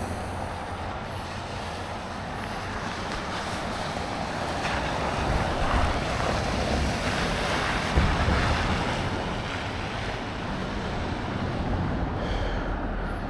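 Wind rushing over the microphone while riding a bicycle, a steady noisy rush with a low rumble, with a single bump about eight seconds in.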